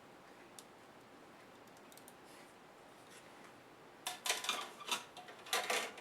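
Hard small parts of a laptop being handled in its disassembly: a few faint ticks, then two short bursts of clicking and scraping, about four and five and a half seconds in.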